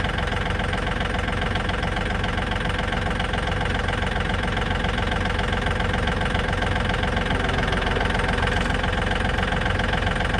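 Tractor engine running steadily at an even speed, with no change in pitch or level.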